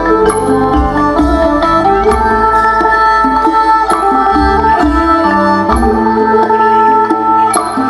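Traditional northeastern Thai (Isan) music for a fon dance: a plucked-string melody over held notes, with a steady drum beat.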